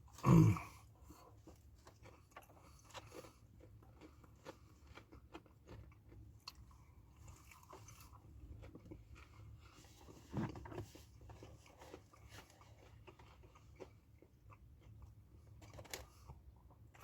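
Close-up crunching and chewing of crunchy Doritos nacho chips, small crackly crunches going on throughout, with two louder low sounds, one just after the start and one about ten seconds in.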